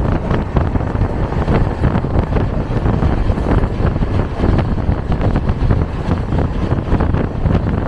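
Express passenger train running at speed, around 127 km/h, heard from an open coach door: loud rushing rumble of the wheels on the track with irregular rattling knocks, and wind buffeting the microphone.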